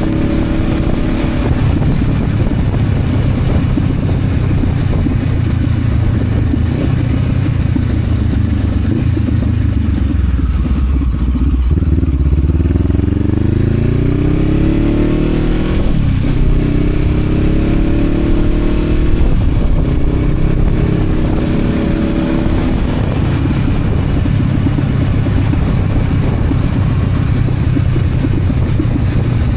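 Honda CB500X parallel-twin engine under way, heard over wind and road noise. About ten seconds in the revs drop as the bike slows, then they climb hard again through two upshifts, about three seconds apart.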